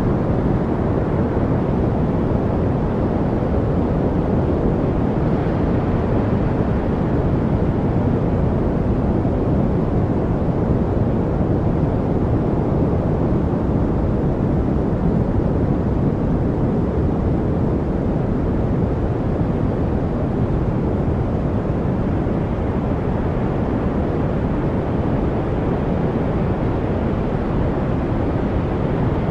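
Steady noise-masking track, a deep, even rush heavier in the low end than the high, with no changes and no birds or other distinct sounds in it.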